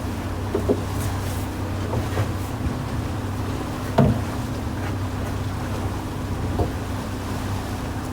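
Fishing boat's engine running at a steady speed, a low drone with wind and water noise over it, and a few light knocks, the sharpest about four seconds in.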